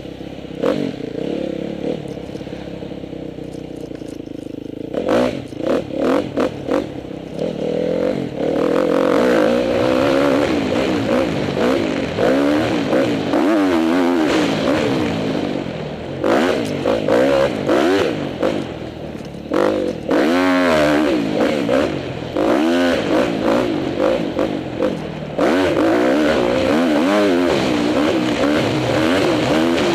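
2010 Honda CRF250R four-stroke single-cylinder dirt bike engine being ridden hard, its pitch repeatedly climbing and falling with throttle and gear changes. It runs quieter for the first few seconds, then gives a string of quick throttle blips and carries on louder.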